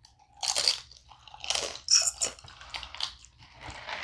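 Close-up crunching and chewing of crisp fried food, with several sharp crunches at irregular intervals.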